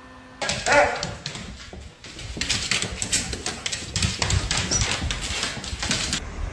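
A dog gives a short cry about half a second in. It is followed by several seconds of scuffling and rustling noises.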